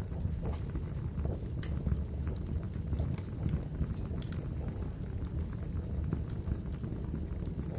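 Small wood campfire burning, with a steady low rumble and scattered sharp crackles and pops from the burning logs.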